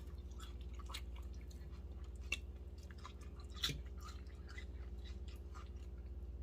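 People eating chicken: soft chewing and mouth smacks with scattered small clicks, two of them a little louder in the middle, over a steady low hum.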